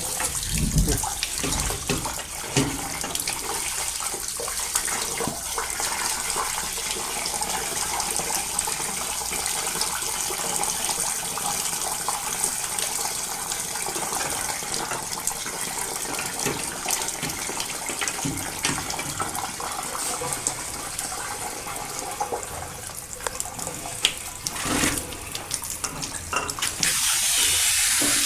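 Water running and splashing steadily as a steam boiler is washed out, water flowing in through it and the dirty, oily water draining out. The flow grows louder and hissier near the end.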